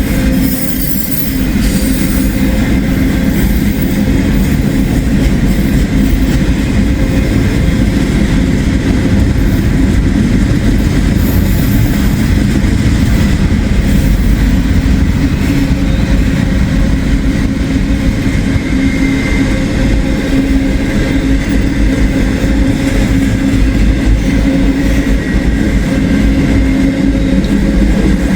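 A long freight train rolling slowly past: a steady, loud running noise of rail cars and their wheels on the track.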